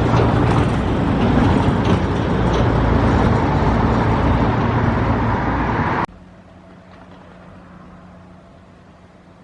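Loud steady rumble of motor noise with a low hum, cutting off suddenly about six seconds in to a faint steady hum.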